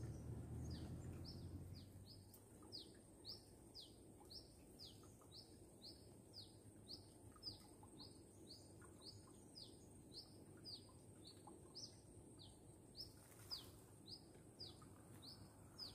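A bird calling faintly and over and over: short downward-sweeping chirps, about two a second, evenly spaced.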